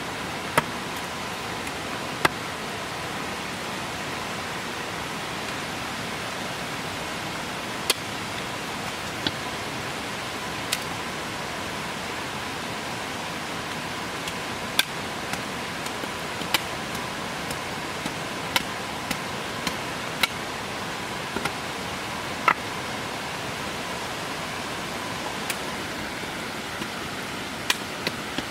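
Steady hiss of heavy rain, with irregular sharp clicks every second or so.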